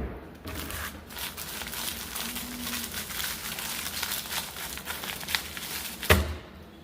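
Crinkling and crackling of the plastic overwrap on a microwave popcorn bag as it is handled and pulled off, with one sharp knock near the end.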